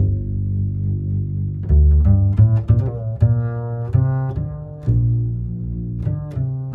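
Bass-heavy music played loud through a large parade sound system: a run of separate notes, each with a deep booming low end, and a melody line above them.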